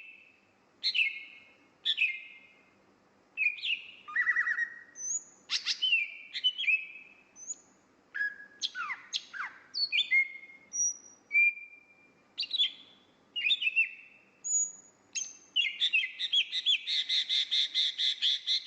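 Oriental magpie-robin (kacer) singing a varied string of short whistled notes and downward-sweeping phrases, separated by brief pauses. Near the end the song breaks into a fast run of repeated notes.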